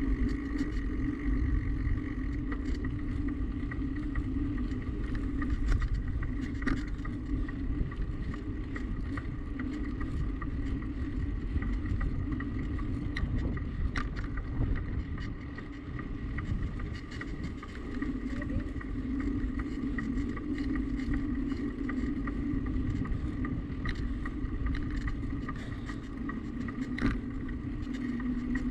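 Riding noise from a bicycle-mounted action camera: wind rumbling on the microphone over a steady hum from the moving bike, with scattered small clicks and rattles.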